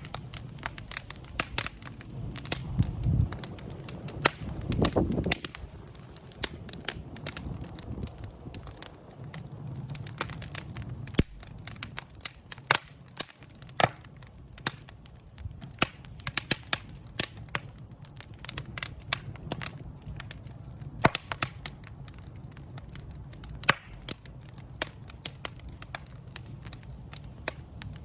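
Wood fire in a fireplace crackling, with many irregular sharp pops and snaps over a low, steady rush of flame. The rush swells briefly twice a few seconds in.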